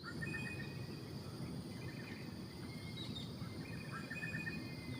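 Outdoor ambience: small birds chirping in short, quick runs over a steady low rumble, with a faint, even high insect drone.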